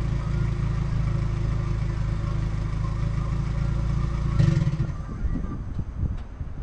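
Car engine idling steadily, then a short swell of throttle about four and a half seconds in, after which the engine cuts off.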